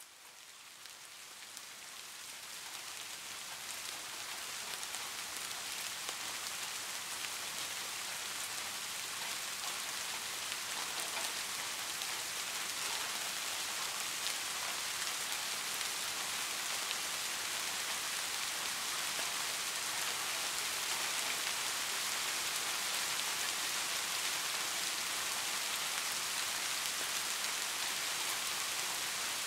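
Steady rain falling, a dense hiss of many drops that fades in over the first few seconds and then holds steady.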